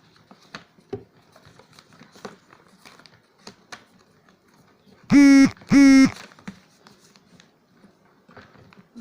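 Paper being handled and pressed together while gluing, with faint rustles and small taps. About five seconds in come two loud, short pitched tones, one right after the other, each held at a steady pitch.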